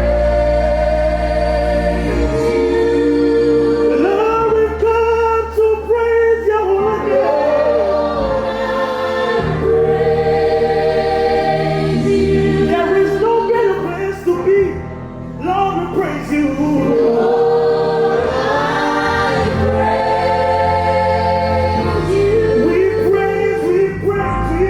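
Worship music: a choir or congregation singing a gospel song over sustained bass chords.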